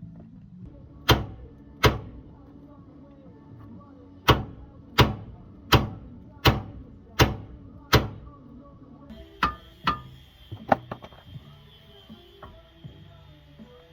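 A series of sharp knocks: two single strikes, then six evenly spaced ones less than a second apart, then a few lighter knocks.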